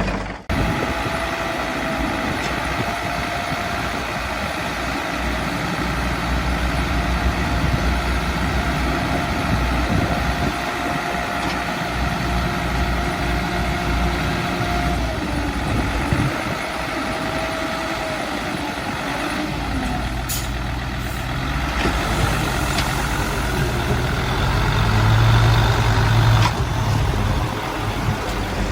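Heavy diesel earthmoving machinery running steadily: bulldozer and dump-truck engines at work, with a faint steady whine at times.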